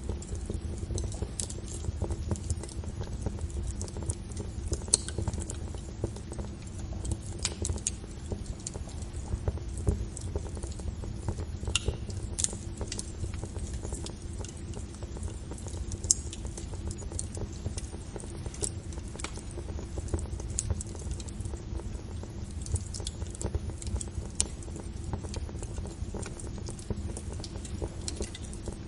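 Fire crackling: irregular sharp snaps and pops over a steady low rumble of the flames.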